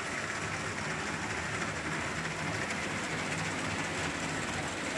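LEGO model EMD F7 locomotive pulling a heavy train up a steep grade: steady running noise from its LEGO train motors and wheels on the track, mixed with the DCC sound decoder's diesel engine sound played through its speaker.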